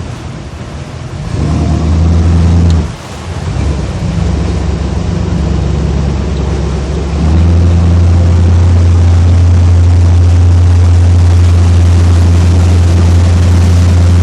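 Motorboat engine running at a steady pitch, with water and wind noise. It gets louder about seven seconds in and then holds steady.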